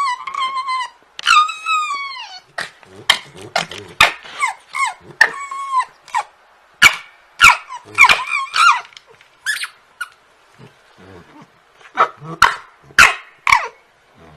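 A dog barking and yelping in a rapid run of short, high-pitched calls, many sliding down in pitch, with a brief lull past the middle.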